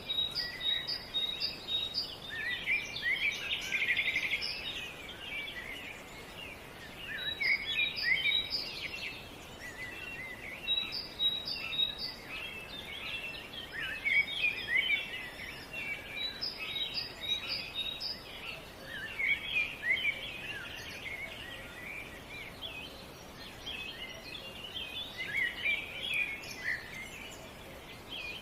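Several small songbirds chirping and singing at once, with flurries of quick high notes every few seconds over a faint steady background hiss.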